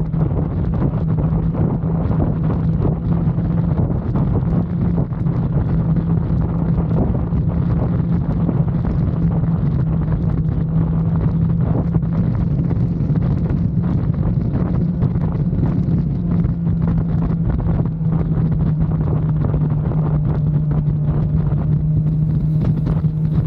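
Kawasaki Z900 inline-four engine running at steady revs while riding, under heavy wind rush on the microphone. The engine note drops slightly near the end as the throttle eases.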